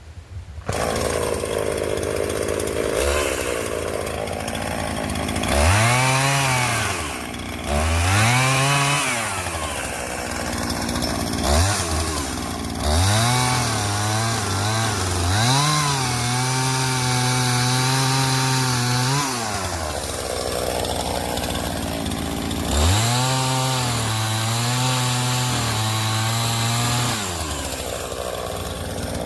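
Two-stroke chainsaw cutting up a fallen branch. It idles between cuts and is revved to full throttle about four times; the longest run is held high for several seconds in the middle, then drops back to idle.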